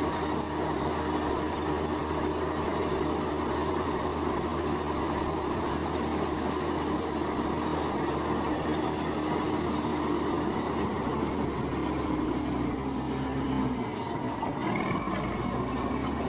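Komatsu bulldozer's diesel engine running steadily under work, with a constant rumble and hum; about 14 seconds in the engine note drops.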